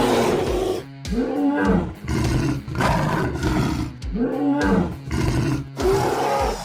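Creature roar sound effect: a series of about five roaring calls, each around a second long, rising and falling in pitch.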